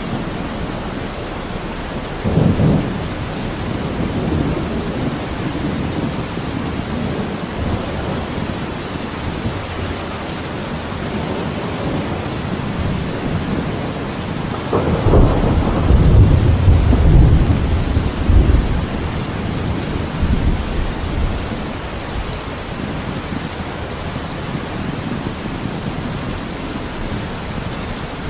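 Thunderstorm: steady heavy rain, with a short rumble of thunder about two seconds in and a longer, louder rumble of thunder starting around fifteen seconds in and fading over a few seconds.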